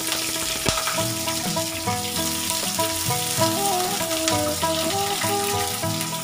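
Freshly added sliced onions and green chillies sizzling in hot oil in an aluminium frying pan, with a metal spatula stirring them. Background music with a melody plays throughout.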